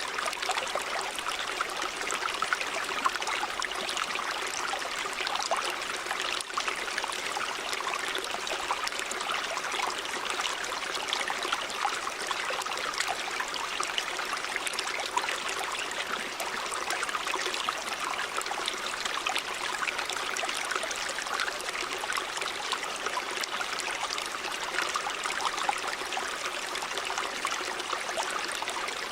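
River water running steadily over stones, a continuous rushing with fine splashing and trickling detail.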